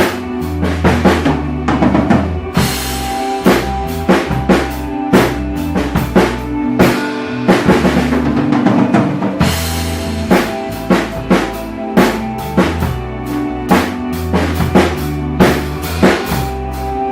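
Drum kit played along to an ambient rock backing track: a steady groove of kick drum and snare hits over sustained bass and pad tones. Longer cymbal washes ring out twice.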